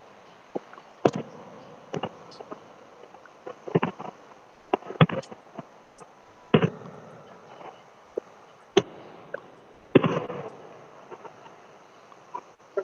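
Fireworks going off: about a dozen sharp bangs and pops at irregular intervals, some followed by a short crackle, the biggest burst about ten seconds in.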